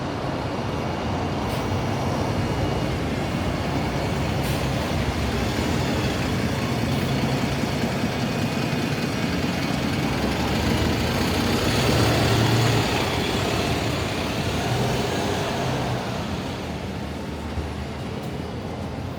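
City street traffic: a heavy road vehicle passing close, its low engine drone and tyre noise building to a peak about twelve seconds in and then fading away.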